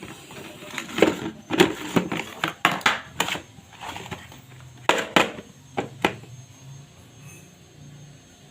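Toy cars clattering as they are handled: a run of irregular sharp knocks and clicks, thinning out after about six seconds.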